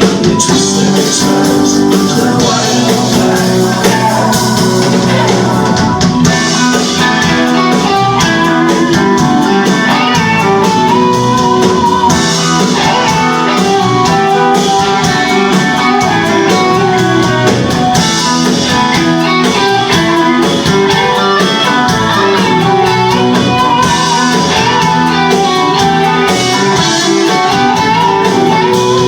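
Live band playing an instrumental passage of a blues-rock song, guitar to the fore over a steady beat.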